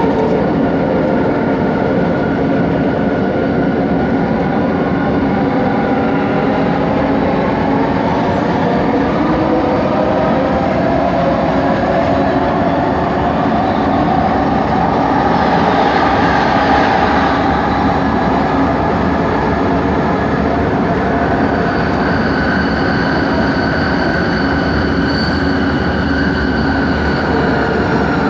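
Bombardier Innovia ART 200 metro train with linear induction motors, running and heard from inside the car. A steady rumble is overlaid with motor whines that glide up and back down in pitch, and a higher whine joins in the latter part. This is the 'weird motor noise' of this train.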